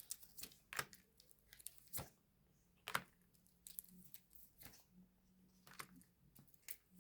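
Tarot cards being handled and laid down: faint, separate taps and slides of card, about one a second.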